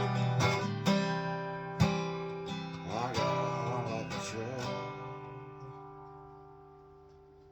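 Closing bars of a country song on guitar: a few strummed chords, then the final chord rings out and slowly fades away.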